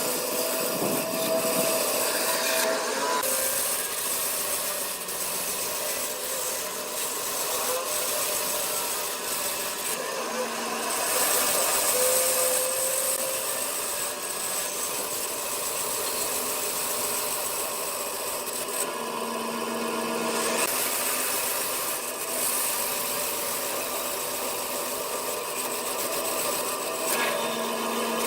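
Wood lathe running while a turning tool cuts the spinning wood: a continuous scraping hiss whose character shifts now and then.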